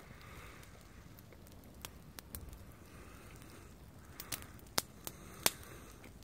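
A bonfire crackling faintly, with scattered sharp snaps, the two loudest near the end.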